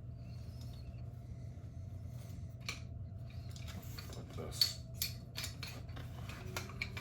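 Small metal parts of a track light fixture handled and worked by hand: a string of sharp clicks and clinks, the loudest about four and a half seconds in.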